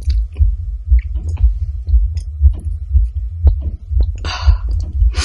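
A woman's amplified heartbeat, a steady run of low thumps about twice a second. There are faint handling clicks, and a short breath about four seconds in.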